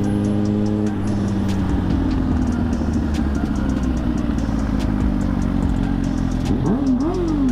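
Suzuki GSX-R1000 inline-four engine running steadily while riding. The pitch eases down about a second in, and a quick rise and fall in revs comes near the end.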